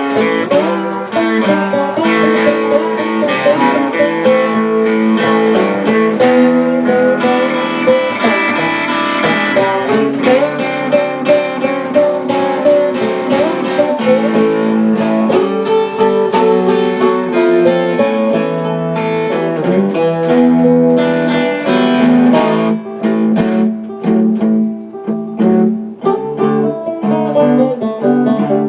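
Acoustic guitar playing an instrumental blues break: rapid picked and strummed notes over a moving bass line.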